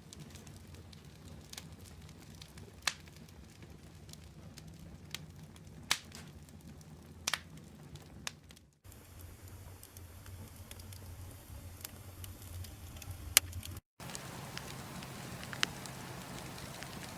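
Wood fire burning in a fireplace: a steady low rumble with sharp crackles and a handful of loud pops from the burning logs. The sound drops out briefly twice where one fire clip cuts to the next.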